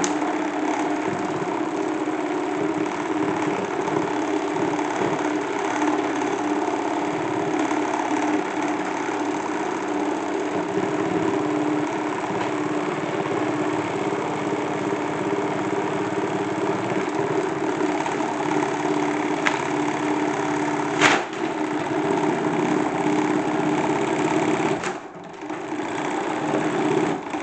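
Small motor of a salad spinner made into a toy washing machine, running with a steady hum as it turns the drum. There is a sharp click about 21 seconds in and a brief dip in the sound near 25 seconds.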